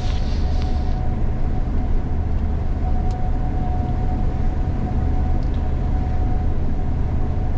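Diesel engine of heavy harvest machinery droning steadily, heard inside the cab, with a steady thin whine over the low rumble and a couple of faint clicks.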